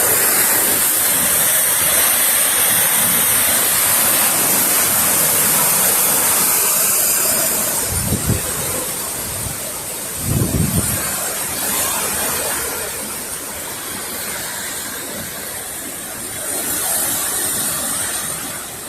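Hurricane wind and driven rain rushing steadily with a loud hiss, with two low rumbles about eight and ten and a half seconds in; the rush eases a little after the first one.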